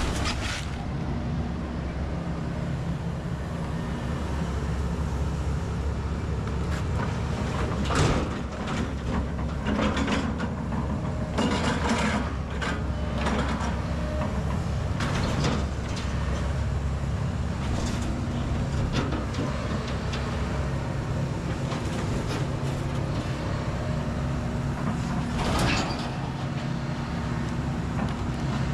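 Kobelco SK210 excavator's diesel engine running steadily under load, broken by several sudden cracks and crashes of house debris being crushed; the loudest comes about eight seconds in, with another near the end.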